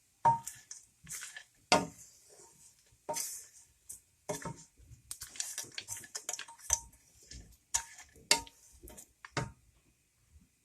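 A spoon stirring poha (flattened rice) in a cooking pan, knocking and scraping against the pan at irregular intervals, with the two loudest knocks near the start.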